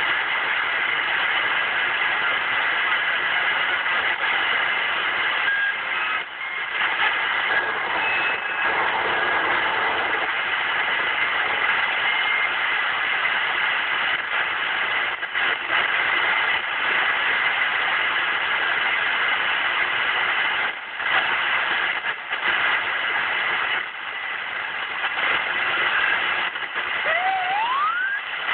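CB radio receiver hiss and static from the 11-metre band. Near the end a 'tweety bird' key-up toy sounds over the air, a tone that starts low and sweeps up to a high pitch.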